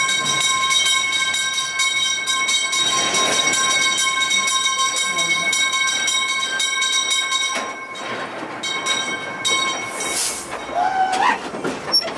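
Calico Mine Train ore cars rolling along the narrow-gauge track, with a steady high-pitched ringing whine over the running noise that stops about seven and a half seconds in. A short hiss comes about ten seconds in.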